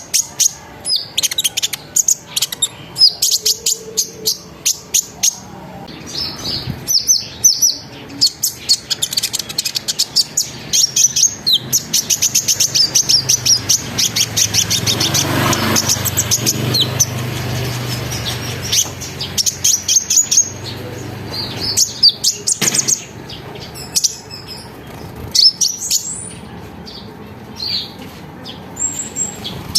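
A kolibri ninja (konin) sunbird singing: rapid runs of high, sharp chirps and chattering trills, with fast rolling sequences in the middle and shorter piercing calls near the end. A low rumble swells under the song around the middle.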